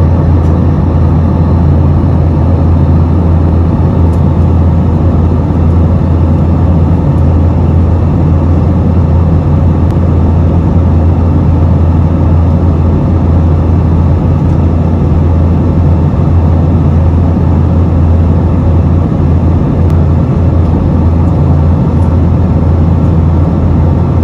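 A loud, steady engine-like drone that cuts in suddenly and holds unchanged, heaviest in the low range.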